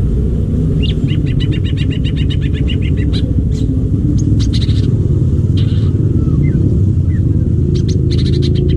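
Leafbird (cucak ijo) singing: a fast run of repeated high notes, about ten a second, for a second and a half, then short slurred chirps and brief bursts of notes. Under it, a loud steady low rumble.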